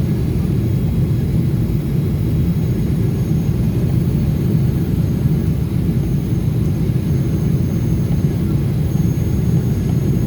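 Steady low rumble of a Boeing 777 jetliner's engines and airflow heard inside the passenger cabin during descent, with a faint high steady whine over it.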